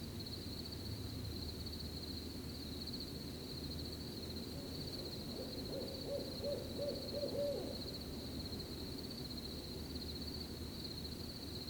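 An owl hooting a quick run of six or seven short notes about halfway through, over a steady high chorus of chirping crickets.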